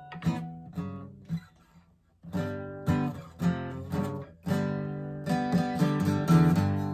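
Acoustic guitar strummed in chords, dropping almost to nothing about two seconds in, then strummed again.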